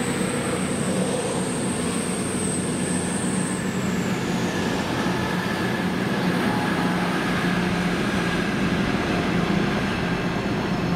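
A train running close by: a steady loud rumble, with a high whine that glides down and fades about four seconds in.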